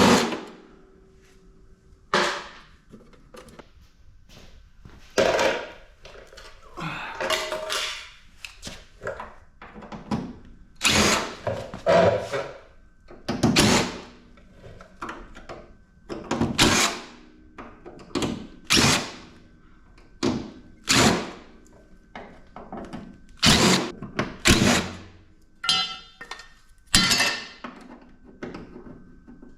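Cordless drill-driver whirring in short bursts as screws are backed out of a PTAC air-conditioner unit, mixed with thunks of metal parts being knocked and handled, starting with a sharp knock.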